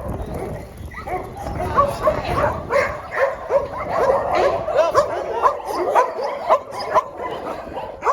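Many dogs barking and yipping together, short high barks overlapping several times a second.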